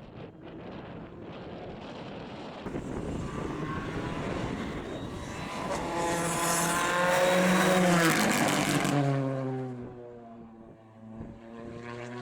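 A rally car at speed approaches with its engine note climbing and getting louder. It is loudest about eight seconds in, then the pitch drops sharply as it goes past, and it fades away.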